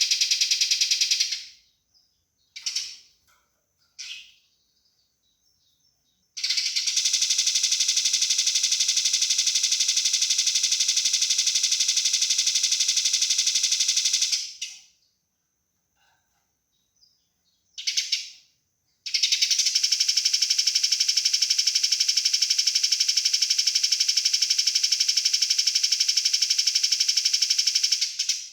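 Eurasian tree sparrow fighting calls: long runs of fast, tightly packed, harsh chattering. The windows holds two long runs of about eight seconds each, with short bursts and pauses between them.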